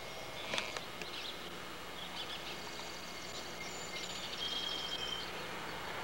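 Outdoor background hiss with birds chirping, and a sharp click about half a second in.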